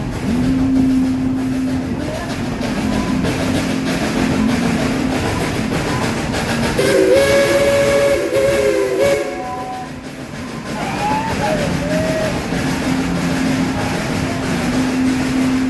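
Steam locomotive whistle blowing one long, wavering blast of about two seconds near the middle, over the steady running noise of the train.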